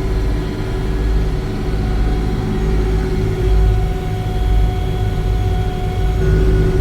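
1980-era combine harvester running steadily while harvesting flax: a low engine rumble with a steady whine from the machinery above it.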